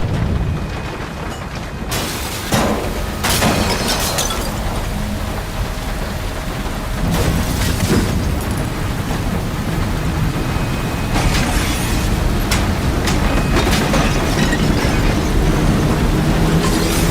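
Tornado roar: a loud, continuous low rumble broken by sharp cracks and crashes of breaking debris, about half a dozen times.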